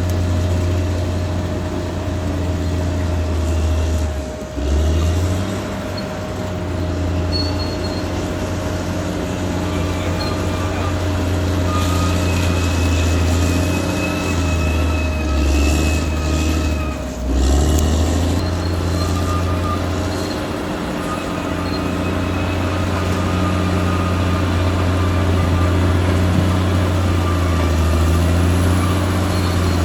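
Caterpillar D6R XL bulldozer's diesel engine running steadily under load, with short dips in the engine note about four and seventeen seconds in. A thin high whine sounds over it in the middle stretch.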